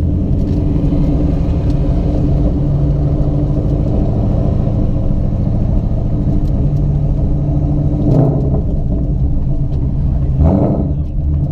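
Ford Mustang GT's V8 running at low speed, heard from inside the cabin as a steady low rumble, with two short louder swells near the end.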